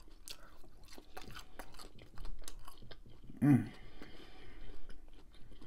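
A person chewing and biting bacon-wrapped shrimp, with many small wet mouth clicks. A short closed-mouth hum comes about three and a half seconds in.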